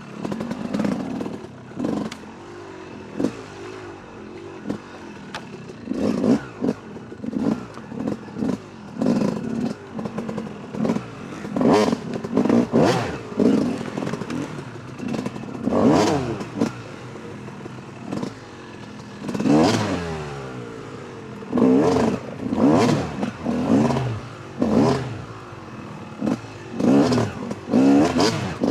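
Yamaha YZ 250 two-stroke single-cylinder dirt bike engine revving in short, repeated bursts of throttle, its pitch rising and falling, with knocks and clatter from the bike hitting rocks.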